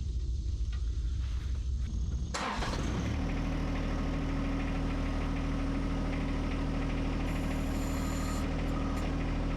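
John Deere 1025R compact tractor's three-cylinder diesel engine starting a little over two seconds in, then settling into a steady idle.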